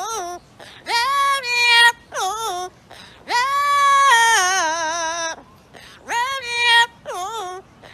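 A pet parrot singing in a human-like voice: several short sung phrases that slide in pitch, and one long wavering note in the middle.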